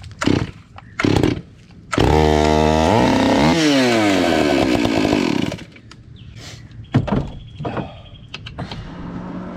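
Stihl MS 461 two-stroke chainsaw pull-started: two short bursts, then it catches about two seconds in, runs, revs up sharply and shuts off about three and a half seconds later, as if test-run after a chain change.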